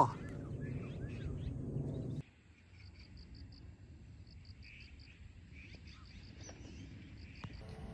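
Faint outdoor ambience with high, rapid chirping in short repeated runs, a few softer calls beneath it. A low rumbling noise in the first two seconds stops abruptly.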